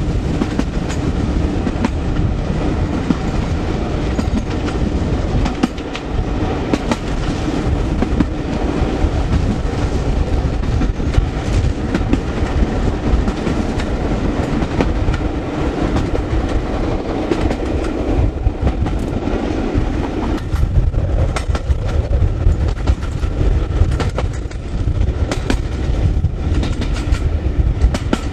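Coaches of a steam-hauled passenger train running at speed, heard from the rear carriage: a steady low rumble with wheels clicking over the rail joints, and wind buffeting the microphone.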